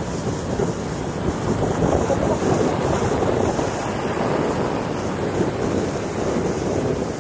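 Wind buffeting the microphone: a steady rushing noise that swells and eases unevenly.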